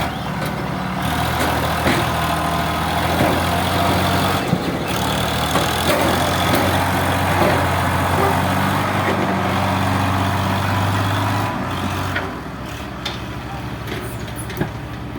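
Diesel engine of a tractor or excavator running at a steady speed. It drops in level about twelve seconds in.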